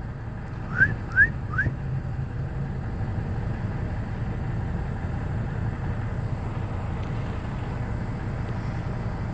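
Steady low rumble of road traffic. About a second in come three quick, short, rising whistled chirps.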